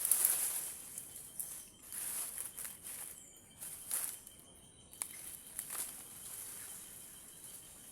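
Insects shrilling steadily at a high pitch, with scattered rustles and clicks close by, the loudest near the start.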